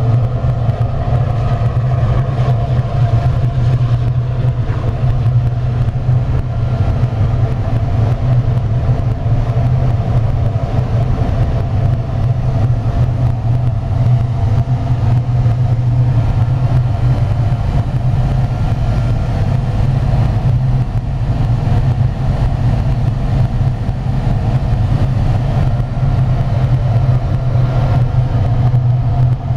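Biomass gasifier furnace burner flame burning, a steady loud low rumble.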